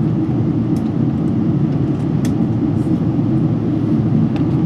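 Steady low cabin noise of a Boeing 777-300 airliner descending toward landing: engine and airflow noise heard inside the cabin, with a few faint clicks.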